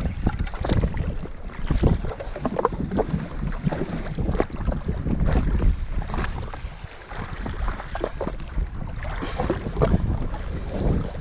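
Wind buffeting the microphone and water slapping and splashing irregularly against a jetski hull at sea.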